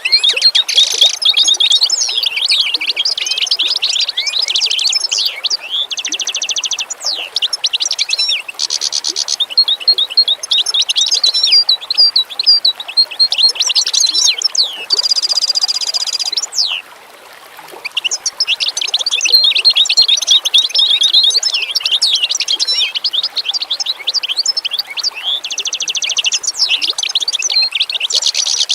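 A dense chorus of small songbirds chirping and twittering, with many quick overlapping calls and several short buzzy trills. The chorus dips into a brief lull a little past the middle, then resumes.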